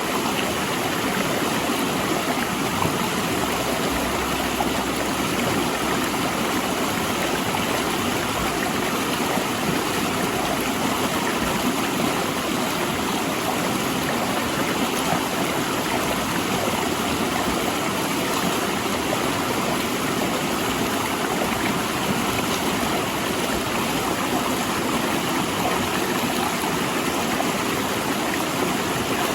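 River water rushing and splashing over and between large rocks, a steady full rush.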